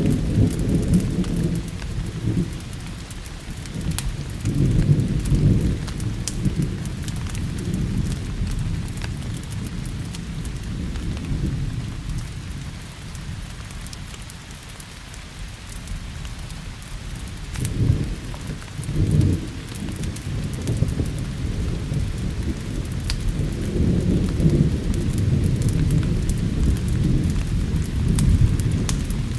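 Steady rain with thunder rumbling in repeated rolls: one at the start, another about five seconds in, a pair of short rolls near eighteen seconds, and a longer one building for several seconds near the end. Scattered sharp ticks run through the hiss.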